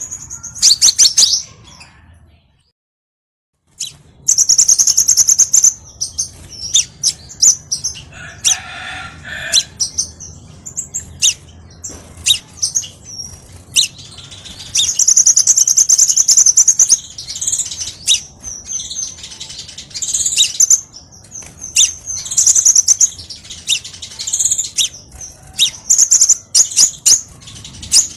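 Crimson sunbird song: rapid, high-pitched chirps and trilled phrases in quick succession, loud and close. The sound drops out completely for about a second near the start, then resumes.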